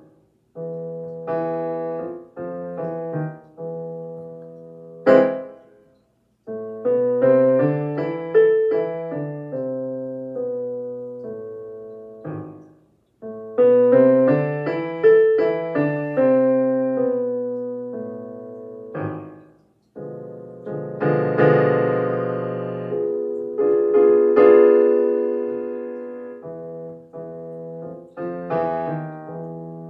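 Solo piano playing a repetitive elementary-level piece, phrases of struck chords and melody notes that ring and fade, broken by short pauses twice.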